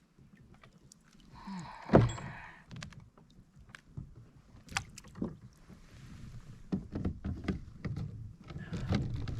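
Knocks, bumps and clunks on a kayak as the angler handles a freshly landed bass, with one sharp, loud knock about two seconds in and a busier run of low bumps near the end.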